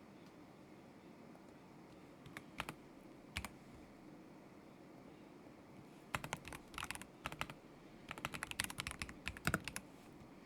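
Kzzi K75 Pro mechanical keyboard with Moment linear switches being typed on: a few single keystrokes about two seconds in, then two short quick runs of typing in the second half, separated by brief pauses.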